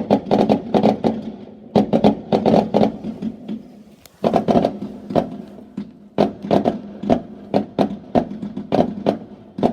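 Fireworks going off in rapid volleys of sharp bangs and crackles, with a brief lull about three and a half seconds in.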